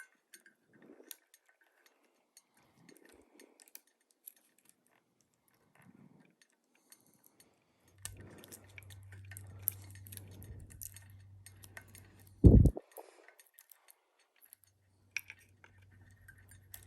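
Small clinks and rattles of light metal parts being handled during ceiling-fan assembly, with a low hum in the middle and one loud knock about twelve and a half seconds in.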